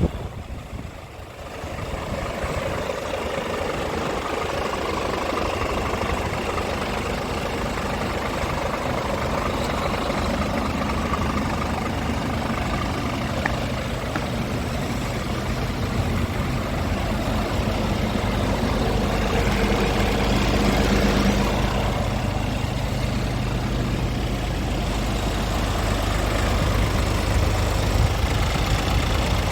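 Scania R450 tractor unit's 13-litre straight-six diesel idling steadily.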